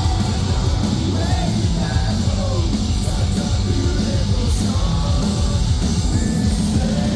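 Live metalcore band playing loud, dense music on stage, with drums, bass and guitars and a vocalist singing and yelling over them.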